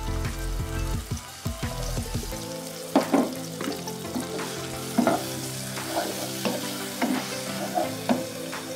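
Ground rendang spice paste of shallot, garlic, chilli and ginger sizzling as it fries in hot oil in a small pot. From about three seconds in, a wooden spatula stirs it and knocks against the pot about once a second.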